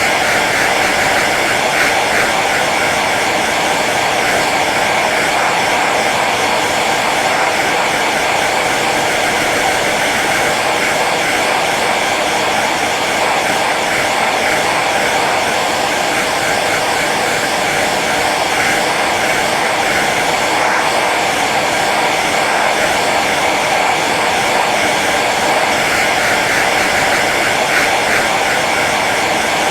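Hair dryer running steadily on its low setting: an even rush of blown air over the motor's faint hum.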